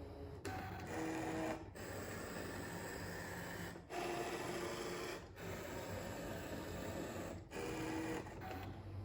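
Brother ScanNCut SDX1500 cutting machine's stepper motors whirring as it cuts felt, moving the blade head and mat in runs of a second or two with brief pauses between them. The motor whine changes pitch from one run to the next.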